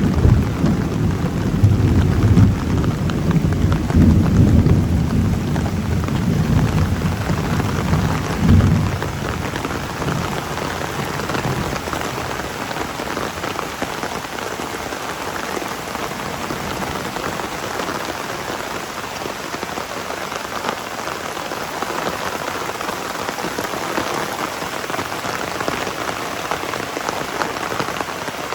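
Heavy rain falling steadily. A low rumble of thunder swells and fades over the first nine seconds or so, then only the rain remains.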